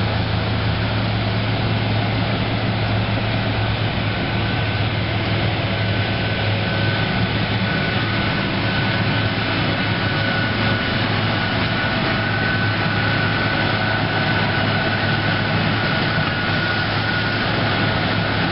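Electric commuter train of four ex-Pennsylvania Railroad Budd cars and a GE car running past, a continuous rumble with a steady low hum and a thin whine that comes up about six seconds in.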